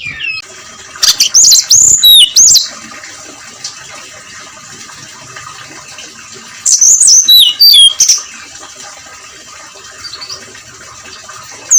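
Brown-chested jungle flycatcher singing: two loud bursts of fast, high whistled phrases that slide downward, about a second in and again around seven seconds in, with a third starting at the very end, over a steady hiss.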